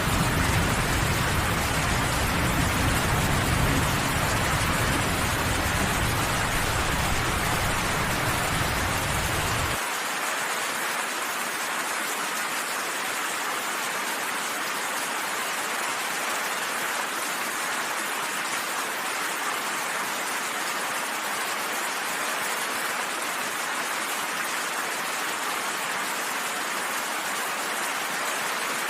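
Steady rain falling, an even continuous hiss. Under it a deep low rumble cuts off abruptly about ten seconds in, leaving only the rain.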